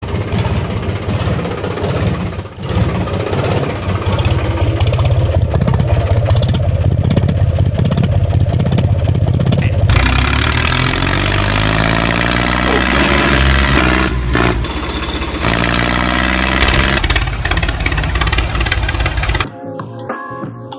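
Engine running, with an abrupt change about halfway through to engine sound that rises and falls in pitch as it revs. Near the end it cuts off sharply and music takes over.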